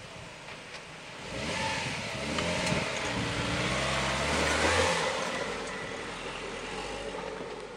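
Renault Duster 4x4 engine revving under load as it climbs a dirt slope, getting louder about a second and a half in and easing off after about five seconds.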